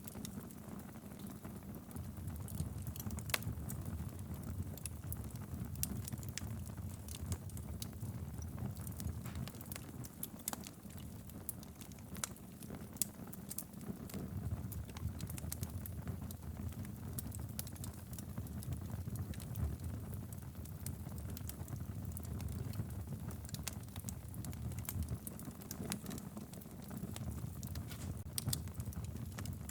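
Wood fire burning in a fireplace: logs crackling with frequent irregular sharp pops over a low, steady rumble of the flames.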